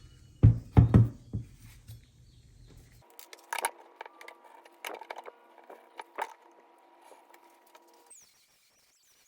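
Several heavy knocks over a low hum, then a steady hum with a series of sharp clicks and taps, which stop suddenly near the end.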